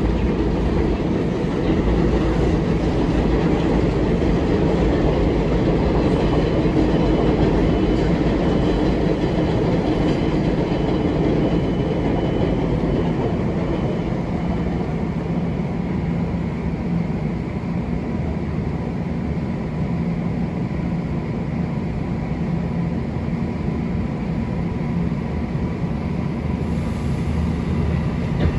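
A Long Island Rail Road train running past, with a steady rumble of wheels on rail and a few faint steady tones. It is loudest in the first half and eases a little after the middle.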